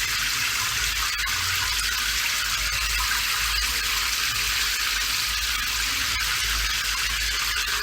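Steady rain: an even, unbroken hiss of falling water with a low rumble underneath.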